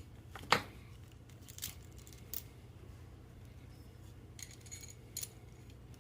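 Small metal parts of a refrigerant line fitting clicking and clinking as they are handled and fitted together. A sharp click about half a second in is the loudest, followed by a few lighter taps.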